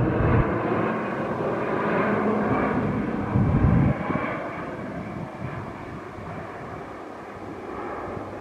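PZL-130 Orlik turboprop aircraft flying past and moving away, the engine noise fading steadily, with a brief swell about three and a half seconds in.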